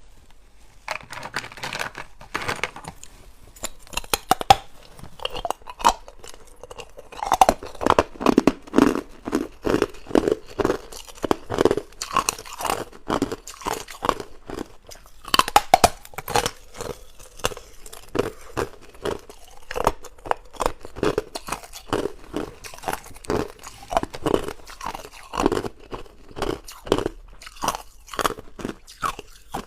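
Hard ice being bitten and chewed: a steady run of sharp, irregular crunches.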